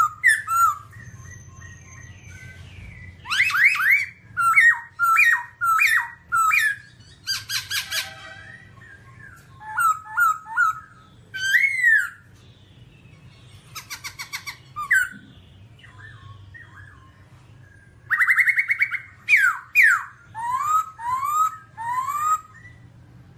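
Black-throated laughingthrush singing: loud whistled phrases of quick slurred notes rising and falling, broken by several fast rattling trills, with a few seconds' pause past the middle.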